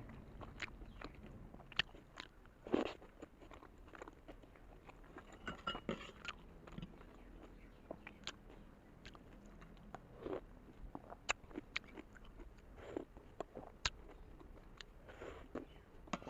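A person chewing and biting into a big steamed vegetable momo, with irregular wet mouth clicks and smacks close to the microphone.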